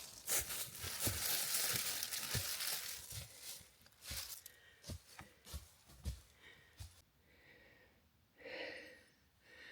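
Footsteps crunching through dry fallen autumn leaves, about two steps a second. The crunching is densest for the first three seconds, then thins to lighter, scattered steps.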